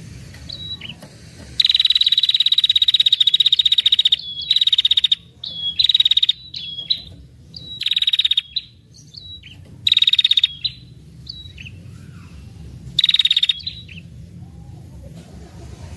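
Female red-headed prenjak giving a long, rapid buzzing trill, then several shorter trills broken by short chip notes, over a faint steady low hum.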